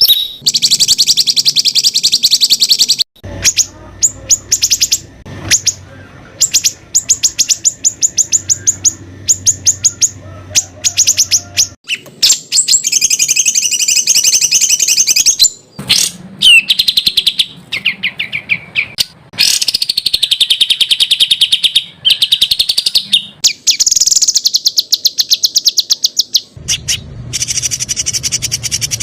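Songbird singing fast phrases of rapidly repeated high notes and trills, some notes sweeping up and down, with short breaks between phrases: the dense, rapid-fire 'tembakan' song that is prized in Indonesian competition songbirds.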